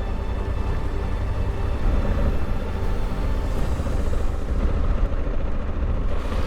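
Honda Africa Twin's parallel-twin engine running as the motorcycle is ridden, under a steady low rumble of wind and road noise on the camera mic.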